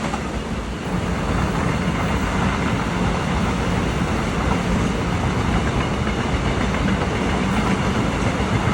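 A train passing on the tracks, a steady continuous rumble and rail noise with a low hum underneath.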